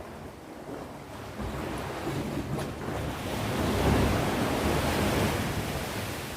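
Sea waves breaking on the shore: the surf swells up about halfway through, peaks, then slowly washes back and fades near the end.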